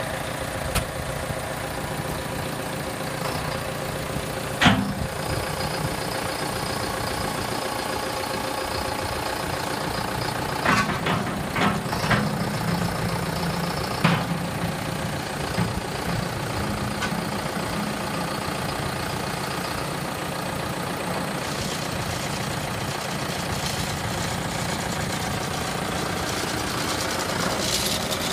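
John Deere 6430 tractor's four-cylinder diesel engine idling steadily, with a few short knocks over it, the loudest about five seconds in.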